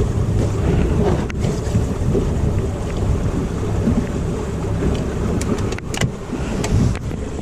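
A boat out on the water: a steady low rumble with wind buffeting the microphone, and a few sharp clicks.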